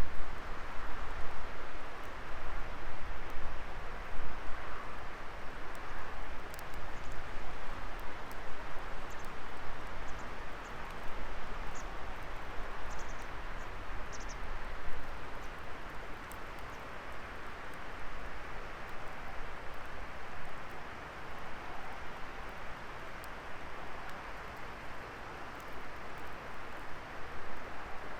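Wood fire burning in a fire pit: a steady hiss and rush of flames with scattered crackles and pops of burning wood, most of them in the first half. The fire gets a little quieter toward the end.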